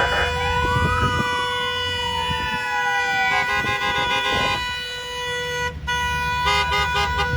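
A vehicle siren wails, rising for about a second and then sliding slowly down. A couple of honking horn blasts follow, over the low rumble of passing trucks.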